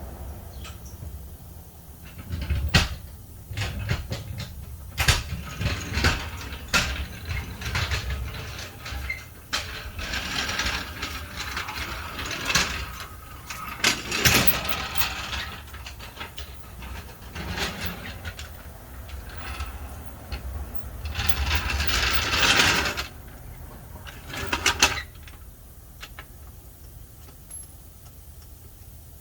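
Irregular metal clanks, knocks and ratcheting from jack and hand-tool work on a pickup's wheel, with several longer rattling bursts, the longest and loudest about three-quarters of the way through.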